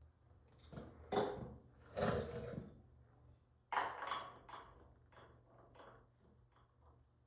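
Metal parts and tools being handled on a workbench: three sharp clanks in the first four seconds, then a run of lighter clinks and taps.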